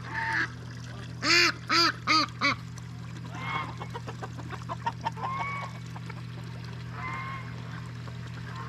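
Farmyard poultry calling: four loud calls in quick succession about a second in, then a stretch of softer, quicker chattering calls. A steady low hum runs underneath.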